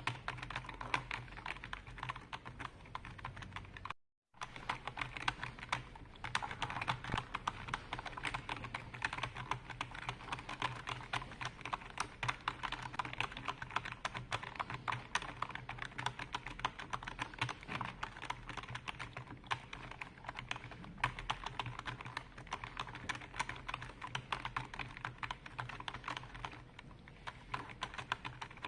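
Continuous fast typing on a computer keyboard, a dense stream of key clicks, broken once by a momentary dropout to silence about four seconds in.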